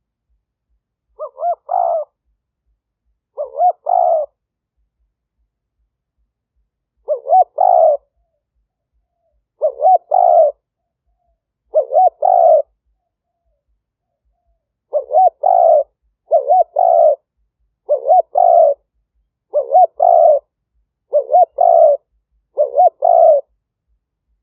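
Spotted dove cooing: a decoy male's territorial call, used to lure wild doves. About a dozen short coo phrases, each under a second, come in an uneven series with two longer pauses and silence between phrases.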